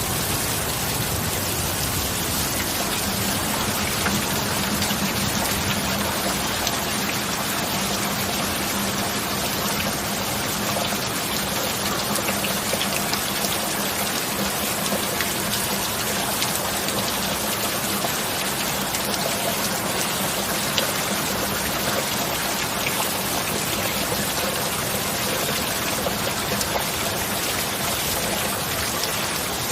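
Steady rain: an even hiss of rainfall with scattered drop ticks, and a faint low steady tone underneath through the first half.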